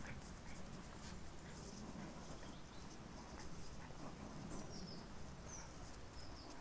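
Faint pattering steps, with a few short falling bird chirps near the end.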